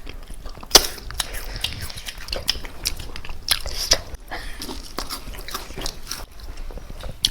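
Close-miked chewing and biting of chicken, a steady run of irregular wet clicks and crunchy snaps.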